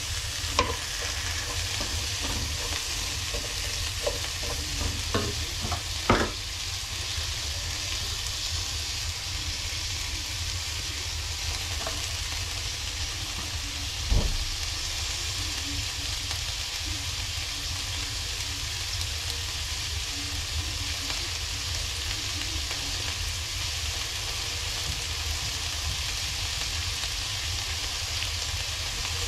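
Vegetables sizzling as they fry in a pan, with a steady hiss over a low hum. A cooking utensil knocks against the pan several times in the first six seconds, and once more about fourteen seconds in.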